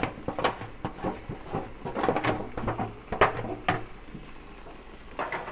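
Sliced bell peppers being added to the pan, a quick run of knocks and clatters that stops about four seconds in.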